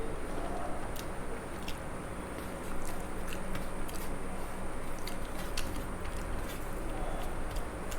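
A person chewing a mouthful of rice and curry, with irregular small wet clicks of chewing and biting.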